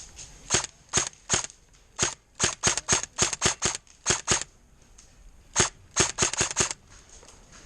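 Airsoft guns firing: about twenty sharp, snapping shots in quick irregular strings, with short pauses between the strings.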